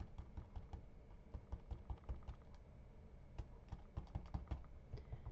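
Light, quick, irregular taps and clicks of a liquid glue bottle's tip being dabbed onto small paper pine-bough cutouts lying on a silicone craft mat.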